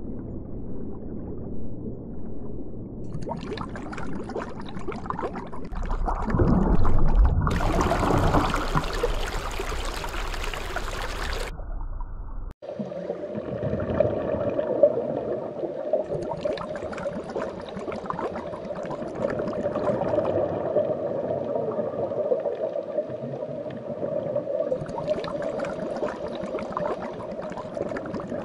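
Water and underwater ambience: a continuous wash of moving-water noise that changes character from one section to the next, louder and fuller between about six and eleven seconds in, with a brief drop-out about twelve seconds in. After the drop-out it runs with a steady tone.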